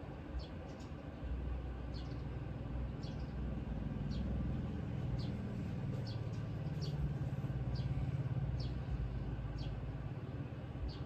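A small bird chirping repeatedly, short high falling notes about once a second. Under it a low engine hum swells in the middle and fades again.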